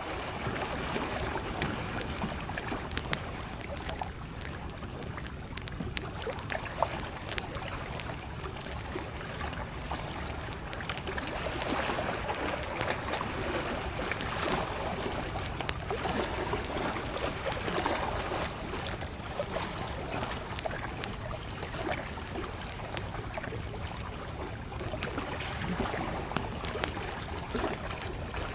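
Wood campfire crackling with scattered sharp pops, over small lake waves lapping at the shore in slow, gentle swells.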